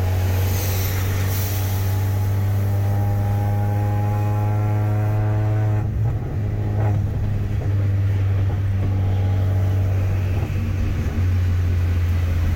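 VW Gol with an aftermarket exhaust accelerating on the road: the engine note climbs steadily for about five seconds, breaks off briefly about six seconds in, then runs on at a steady pitch.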